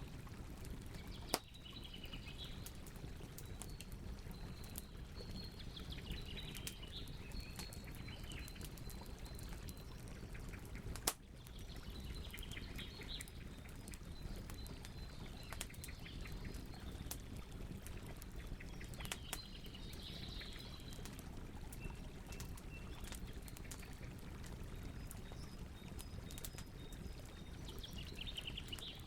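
Wood campfire crackling, with frequent small crackles over a steady low rush of flame and two sharp pops, about a second in and about eleven seconds in. Birds chirp in short bursts several times in the background.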